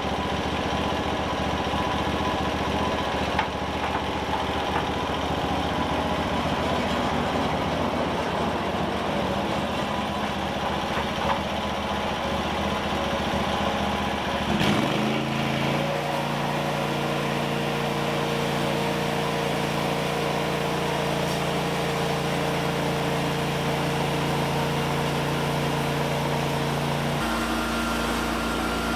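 Small petrol engine running hard and noisily, then dropping in pitch about halfway through and settling to a steadier, lower running speed, with another small change in tone near the end.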